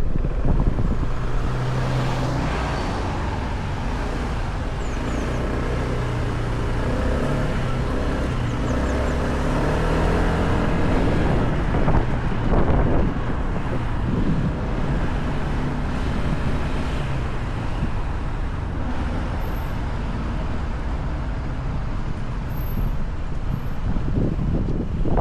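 Motorcycle engine running on the move, with steady road and wind noise over it.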